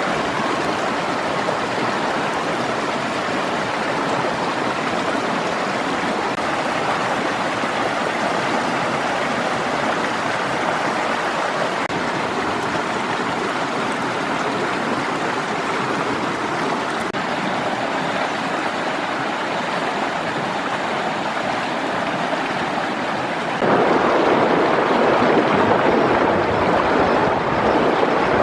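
Steady rush of running water, like a stream. About three-quarters of the way through it jumps louder and duller.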